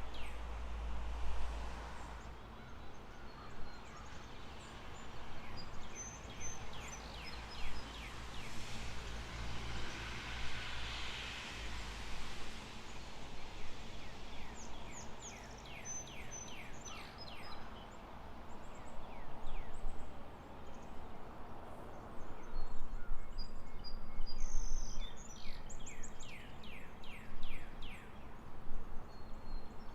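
Outdoor ambience over a steady low rumble, with birds calling: several runs of rapid chirps in quick succession and short high whistles, coming and going, busiest near the end.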